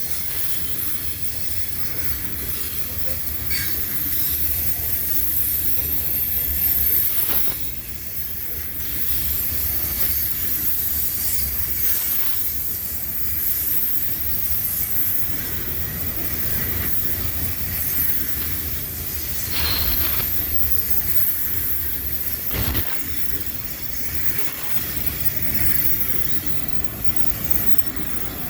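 CSX freight cars rolling past with a steady low rumble and a continuous high-pitched squeal from the wheels, broken by a few sharp clanks.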